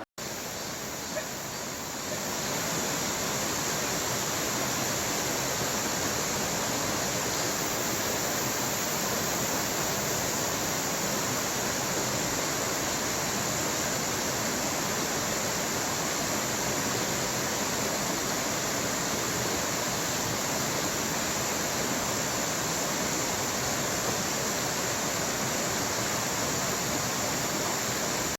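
Mountain valley stream rushing steadily, a little louder from about two seconds in.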